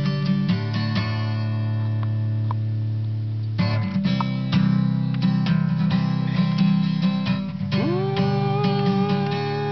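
Acoustic guitar music with strummed chords and plucked notes; near the end a long held melody note slides up into place.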